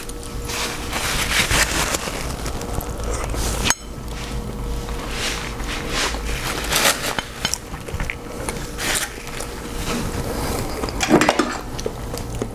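Close-up mukbang eating sounds from a seafood boil: hands working through sauced shellfish, with repeated clicks, crackles and wet handling. The sound breaks off abruptly for an instant a little under four seconds in.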